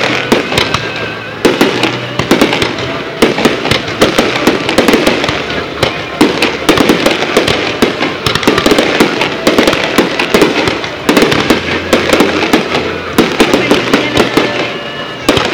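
Aerial fireworks going off in quick succession: a dense run of sharp bangs and crackling pops, one after another with only brief lulls.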